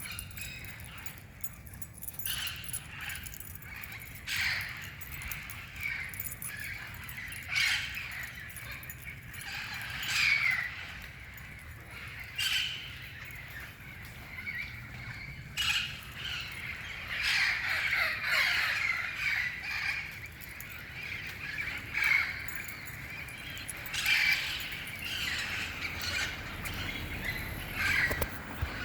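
Parrots calling, short harsh squawks every second or two, with a busier spell of overlapping calls about two-thirds of the way through.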